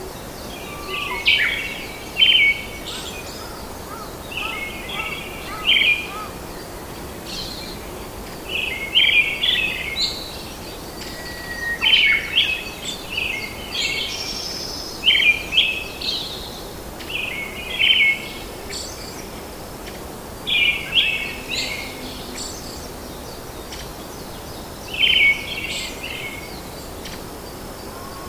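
Birds singing in short, chirpy phrases that recur every one to three seconds, over a steady background hiss.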